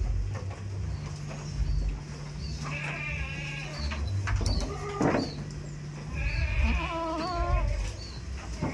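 Goats bleating: two long, quavering bleats, the second about halfway through and louder.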